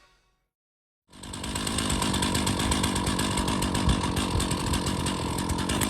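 Chainsaw fitted with a mini mill running steadily under load as it rips along a fir log, cutting off the bark edge. It cuts in abruptly about a second in.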